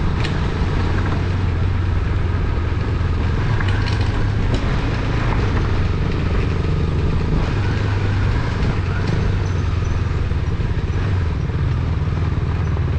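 A KTM 200 single-cylinder motorcycle running steadily at riding speed, with steady road and wind noise.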